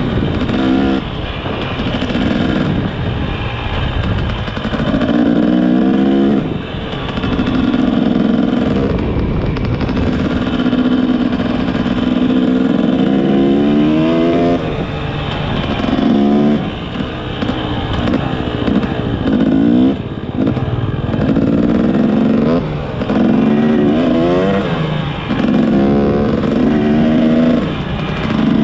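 Motorcycle engine under way, accelerating repeatedly: its pitch climbs and then drops again with each gear change or throttle lift, many times over.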